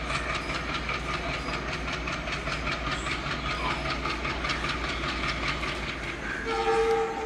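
A passenger train rolling slowly past on the line, its wheels clicking over rail joints in a quick steady rhythm over a low rumble and hiss. Near the end a loud train horn sounds for about a second.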